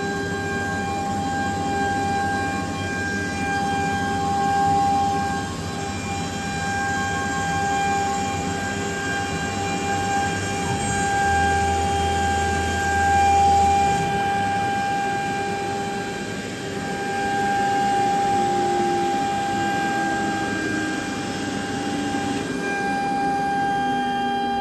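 Woodworking CNC router's 5.5 kW water-cooled spindle running with a steady high whine over a continuous rushing machine noise, the vacuum table's pump running alongside. A lower tone slides down in pitch near the end.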